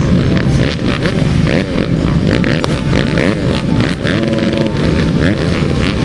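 Several motocross bike engines revving hard and overlapping, their pitch repeatedly rising and falling as they accelerate and shift.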